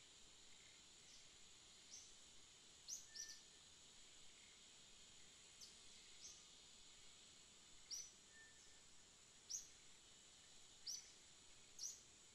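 Faint outdoor ambience: short, high bird chirps come every second or so, about ten in all, over a steady high hiss.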